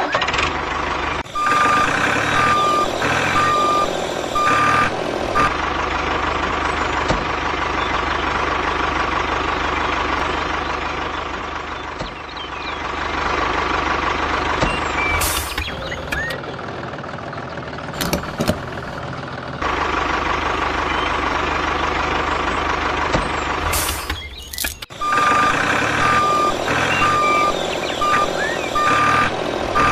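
Truck engine running steadily, with a reversing beeper sounding a run of evenly spaced beeps near the start and again near the end.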